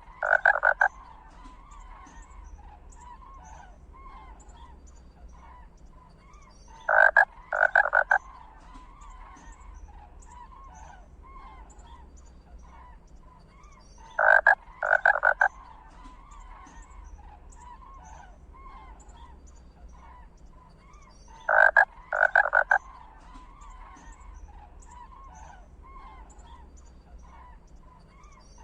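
Loud croaking animal calls in short clusters of two or three, repeating about every seven seconds, over faint continuous chirping.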